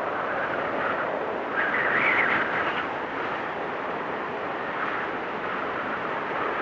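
Blizzard wind rushing steadily, swelling in a louder, higher gust about a second and a half in.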